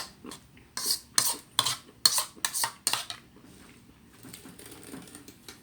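Cutlery clinking against a dish during a meal: about seven sharp, quick clicks in the first three seconds, then only faint sounds.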